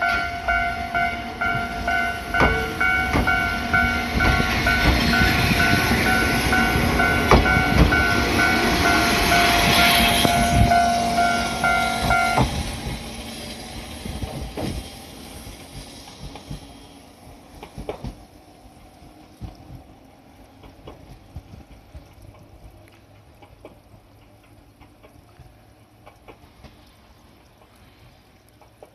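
Choshi Electric Railway 2000 series electric train pulling away, its wheels clicking over rail joints and its running noise peaking, then fading steadily as it recedes. A level-crossing bell rings a steady repeating tone over the passing and stops abruptly about twelve seconds in.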